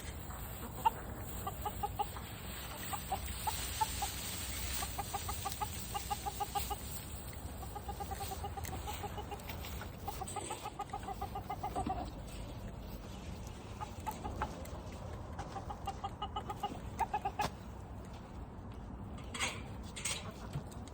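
Backyard chickens clucking, in repeated quick runs of short notes.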